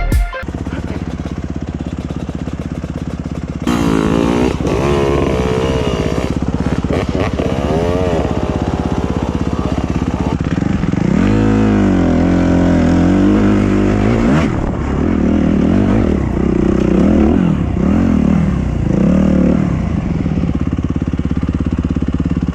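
Dirt bike engine running and revving up and down under throttle while riding a trail, getting louder about four seconds in.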